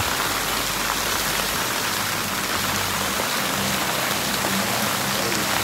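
Steady hiss of running, splashing water, with no breaks.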